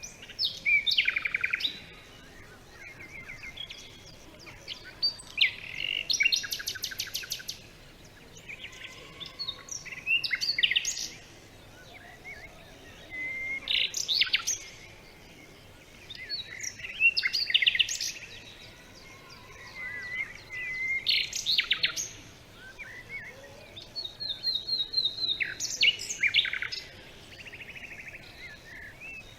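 Songbird singing a series of varied phrases, each a second or two long, made of quick whistles and rapid trills, with short pauses between phrases.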